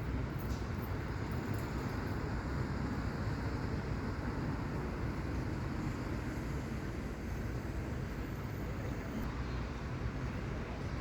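Road traffic noise: a steady rumble of vehicles on the road, with no single vehicle standing out.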